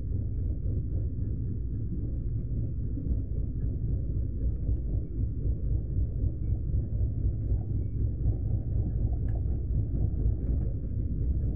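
Steady low rumble of a moving passenger train heard from inside the coach, its wheels running on the rails at speed.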